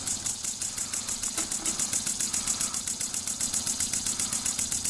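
Small homemade model steam engine running steadily, its exhaust giving a quick, even chuff-hiss at about five beats a second.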